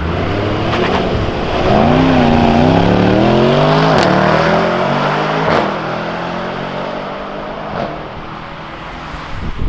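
Mercedes-AMG E-Class sedan accelerating hard away on a wet road, the engine note climbing through the revs with a couple of sharp pops from the exhaust. The sound fades as the car drives off.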